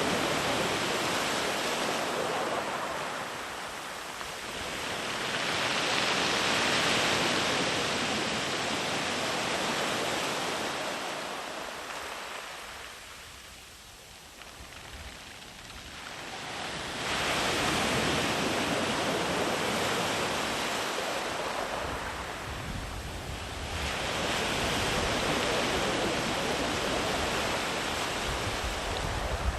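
Sea waves breaking and rolling far up the beach, the surf swelling and fading in slow surges several seconds apart, with a long lull about halfway through.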